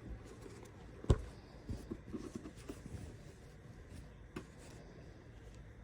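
Faint handling noises of a bag being unpacked from its packaging: a sharp knock about a second in, soft rustling and small clicks after it, and another click near the end.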